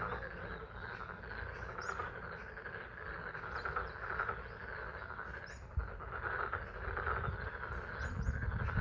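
Chorus of pond frogs calling steadily in spring rain, with a few short bird chirps above it. A low rumble builds near the end.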